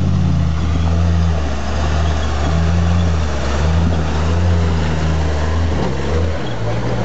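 Jeep CJ-5's Chevy 350 small-block V8 running at low revs as it crawls over rocks, its pitch rising and falling with the throttle. About six seconds in the note changes to a steadier, slightly higher drone.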